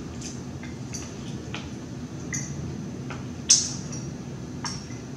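Close-miked eating: chewing with scattered soft, wet mouth clicks and smacks, and one sharper click about three and a half seconds in.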